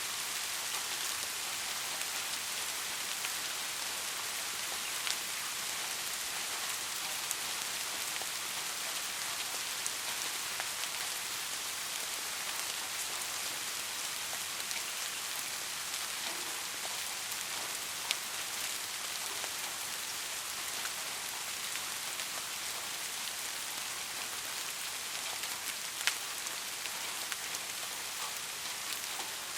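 Steady rain falling, an even hiss of drops with scattered louder single drop ticks, a few standing out about 5, 18 and 26 seconds in.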